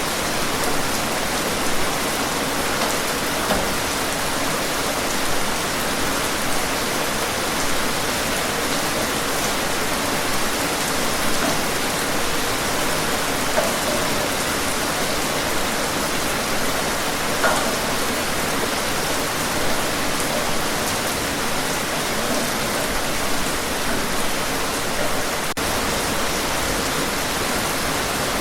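Steady heavy rain: an even, dense hiss with small louder spatters every couple of seconds.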